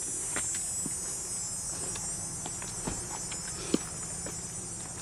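Steady high-pitched chorus of insects, with scattered light clicks and one sharp click a little past halfway.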